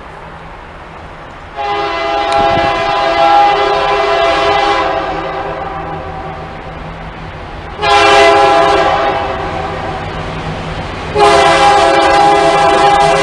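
Diesel locomotive air horn sounding three blasts, each a chord of several tones: a long one about a second and a half in, a shorter one past the middle, and another starting near the end that is still sounding, over the steady low hum of the locomotive.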